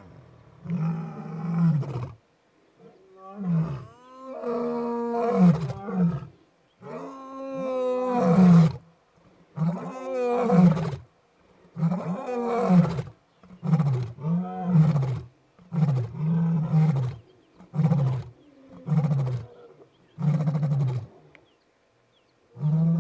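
Male lion roaring: a full roaring bout of long, deep, moaning roars that each rise and fall in pitch, trailing off into a series of shorter grunts about once a second near the end.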